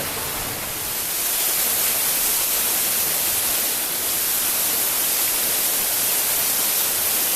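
Waterfall: a steady hiss of falling water, rising a little about a second in.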